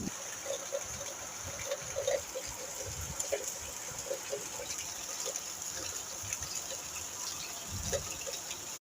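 Rain falling steadily: an even hiss with scattered drips and patters, cutting off suddenly near the end.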